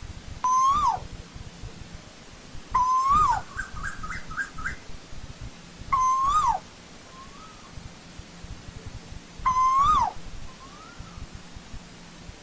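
Asian koel calling: four loud, harsh calls about three seconds apart, each a short note that bends up and then drops sharply. A quick run of five or six short rising notes follows the second call.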